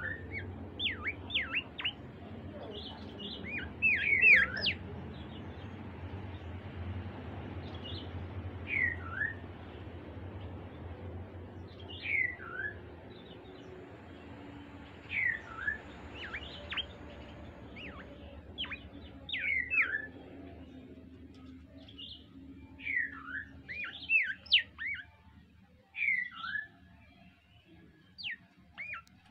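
Songbird singing: short clear whistled notes that fall in pitch, often in pairs or quick clusters, repeated every few seconds. A low background rumble fades out about two-thirds of the way through.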